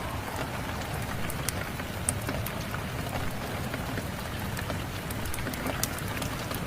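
Steady rain mixed with a crackling wood fire: an even hiss of rainfall with scattered sharp pops and snaps throughout.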